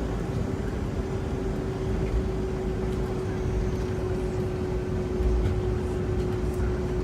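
Cabin noise of a Boeing 757-200 on the ground before takeoff: the jet engines' steady low rumble with a single steady hum.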